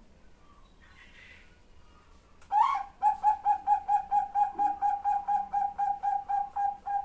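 Female zebra dove (perkutut) calling: one loud opening note that slides down, then a rapid run of short, even-pitched staccato coos, about five a second, for some four seconds. This is a female calling for a male.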